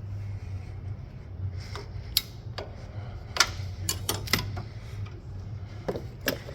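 Scattered sharp metallic clicks and clinks, about seven of them in the middle and latter part, as the engine's drive belt is worked off its pulleys and the tensioner and tools are handled, over a steady low hum.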